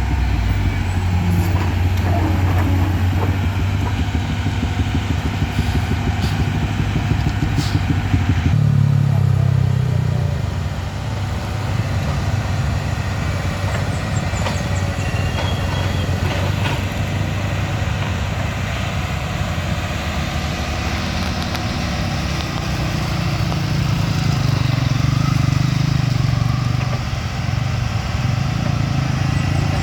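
Vehicle engines running with a low, steady note. The engine note changes abruptly about eight seconds in.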